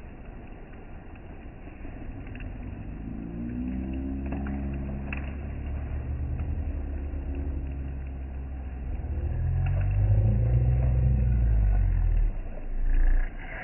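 A motor vehicle's engine passing, its low hum rising and falling twice and loudest past the middle, with a few faint crackles from a wood campfire.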